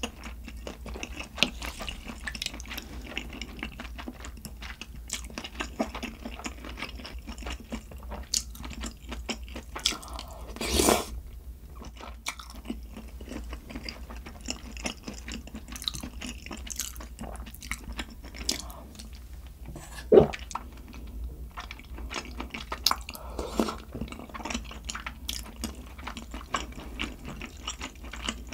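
A person chewing and eating up close to the microphone, with many small wet clicks and some crunching. There is a louder noisy swell about eleven seconds in and a sharp click about twenty seconds in.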